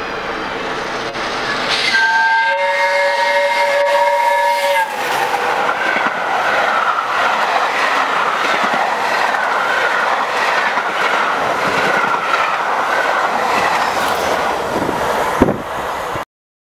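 LNER Peppercorn A1 Pacific steam locomotive Tornado passing at speed: its whistle sounds for about three seconds, a held chord of several notes, then the steady rush and clatter of wheels on rail as the coaches run through. A sharp knock sounds near the end just before the sound cuts off.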